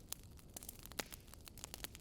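Wood fire crackling: irregular sharp snaps and pops over a faint steady hiss, the loudest snap about a second in.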